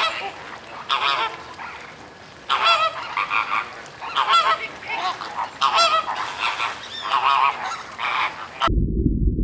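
A flock of greater flamingos honking: goose-like calls, one after another with short gaps, some in quick doubles. Near the end the calls cut off and a low rumble takes over.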